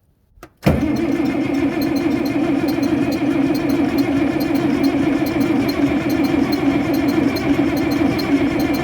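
International Harvester 1486 tractor's six-cylinder diesel being cranked over by its starter in a cold start. The sound comes in suddenly about a second in and then runs steady and even.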